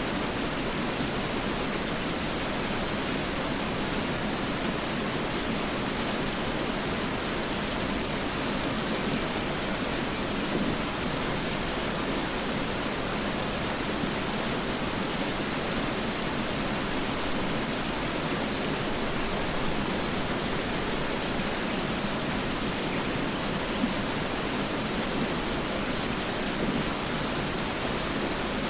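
Mountain river flowing, a steady even wash of water noise with no breaks or changes.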